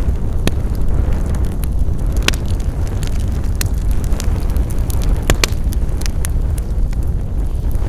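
Wood fire burning with a steady low rumble and irregular sharp crackles and pops, a few of them louder.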